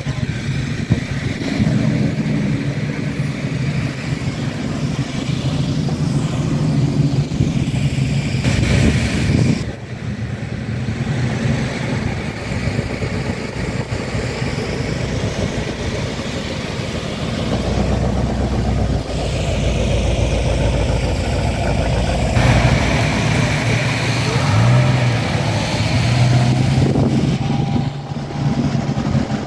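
Engines of vintage American cars and a pickup truck running at low speed as they drive slowly past one after another, the engine note changing each time a new vehicle comes by.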